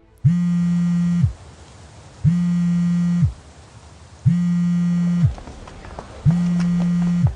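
Mobile phone buzzing on vibrate with an incoming call: four even, rasping buzzes, each about a second long and two seconds apart.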